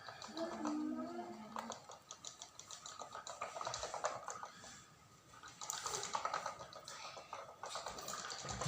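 Light clicking and rattling of small hard objects being handled, in irregular bursts, with a brief high voice near the start.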